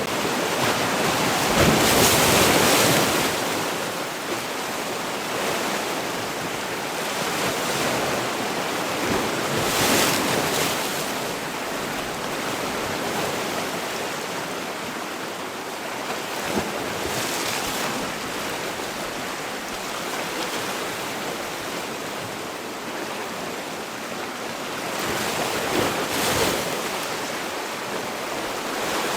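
Sea waves washing onto the shore: a steady rush of surf that swells with a louder breaking wave about two seconds in, again about ten seconds in and near the end.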